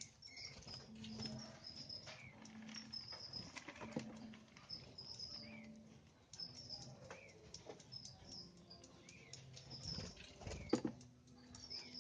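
Small caged birds chirping: many short, high, repeated chirps, with some lower gliding call notes and scattered light clicks.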